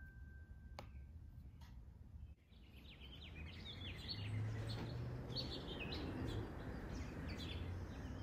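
Birds chirping, with a steady low hum under them, from about two and a half seconds in; before that only faint room noise with a single click.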